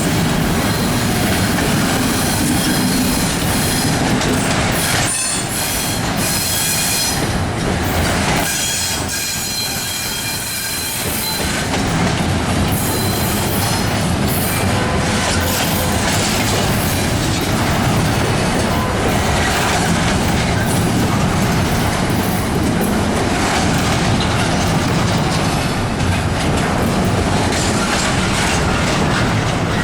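Norfolk Southern freight train rolling past, with a steady rumble and clickety-clack of wheels over the rail joints. High-pitched wheel squeal comes in at times, strongest from about 4 to 12 seconds in.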